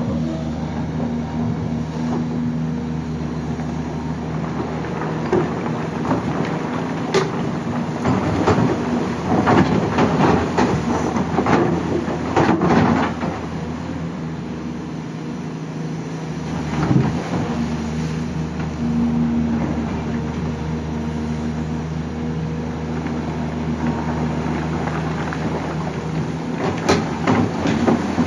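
Excavator working: its engine running steadily under load, with repeated loud clanks and knocks of metal, a dense run of them in the middle, another about seventeen seconds in and more near the end.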